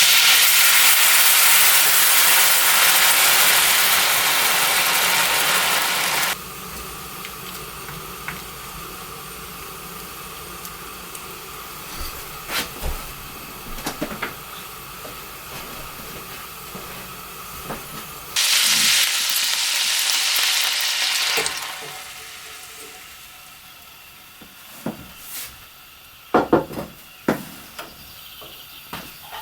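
Food sizzling loudly in a hot frying pan for the first six seconds and again for about three seconds in the middle, with quieter sizzling between. A few short knocks and clinks come near the end.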